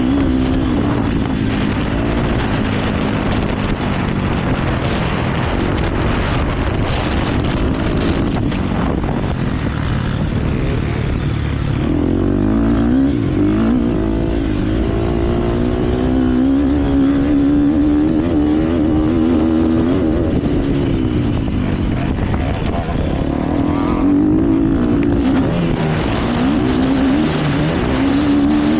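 KTM motocross bike engine ridden hard around a track. The engine pitch climbs and drops over and over with the throttle and gear changes, over steady rushing noise.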